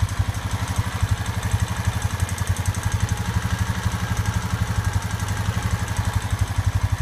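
Honda Rancher 420 ATV's single-cylinder four-stroke engine idling steadily with an even, fast pulse, warmed up and running on full-synthetic oil that has gone 819 miles without a change.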